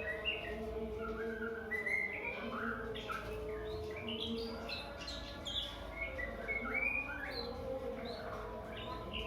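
White-rumped shama singing a rapid, unbroken run of short whistled notes, many gliding up or down in pitch.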